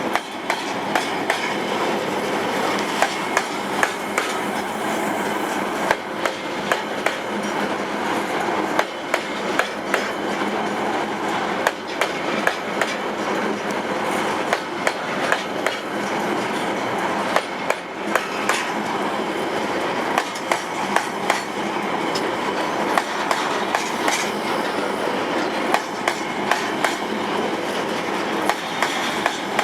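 Loaded freight wagons rolling past, with a steady rolling noise and sharp clicks from the wheels striking rail joints in irregular pairs and clusters.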